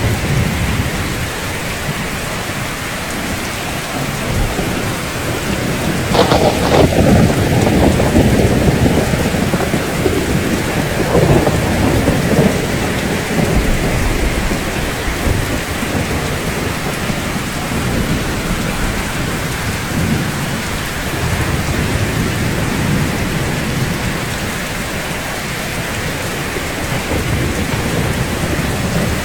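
Steady rain falling, with a thunderclap about six seconds in whose low rumble rolls on for several seconds before fading back under the rain.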